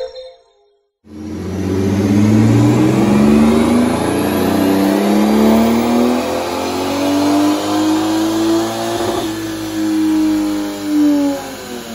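Toyota Aristo's 2JZ-GTE twin-turbo straight-six pulling under load on a rolling road. Starting about a second in, the revs climb steadily for about eight seconds, then level off and fall near the end.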